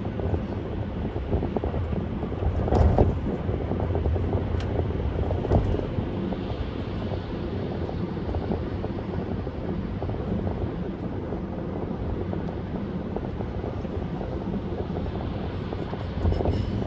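Car driving at parkway speed: steady road and wind noise, with a louder bump about three seconds in and another near the end.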